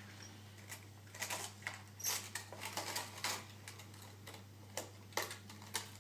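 Toy vehicles and a toy car wash being handled, making a run of irregular light clicks and knocks.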